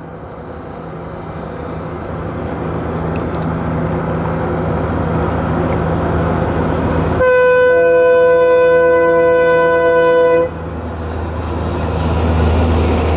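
Diesel locomotive hauling a passenger train across a bridge, its engine growing louder as it approaches. About seven seconds in it sounds one horn blast lasting about three seconds. A deep rumble of the train on the bridge then builds as it draws near.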